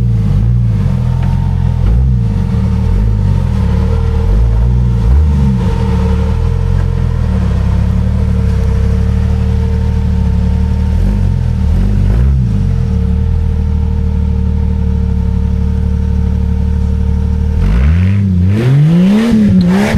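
Jeep Cherokee XJ's engine running at low revs, its pitch wavering up and down a little, then revved up and down harder near the end.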